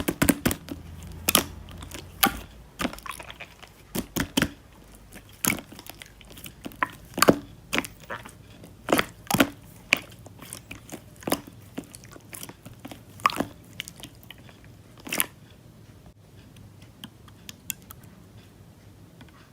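Slime being squeezed and pressed by hand, giving wet clicks and pops about once a second. They thin out to a few faint ticks near the end.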